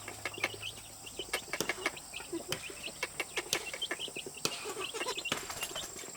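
Farmyard poultry and small birds: many short chirps and clucks, with scattered sharp clicks throughout.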